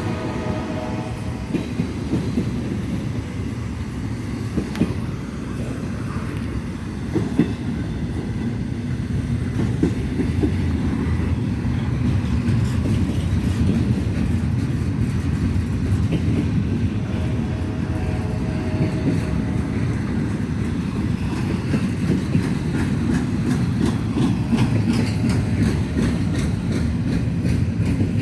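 Norfolk Southern intermodal freight train rolling past: a steady low rumble of wheels on rail, with clickety-clack from the rail joints growing denser in the last few seconds. A tone fades out in the first second and comes back faintly about two-thirds of the way through.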